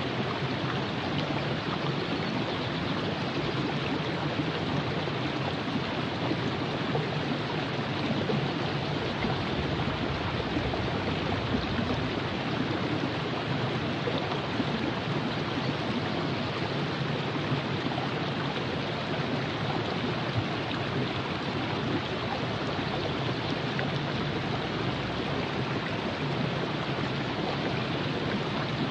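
Virgin River flowing in a steady, even rush of moving water over its bed.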